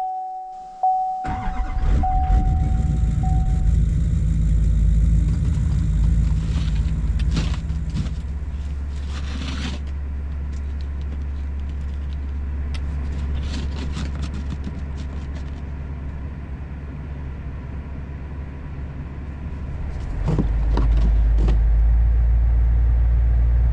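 Pickup truck engine started about a second in, then running steadily at a cold-weather warm-up idle, getting louder near the end. A steady in-cab warning chime sounds over the first few seconds.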